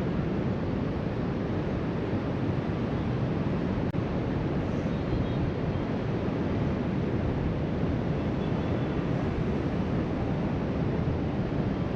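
Steady rush of ocean surf breaking along the beach, heard from high above, mixed with wind blowing across the microphone.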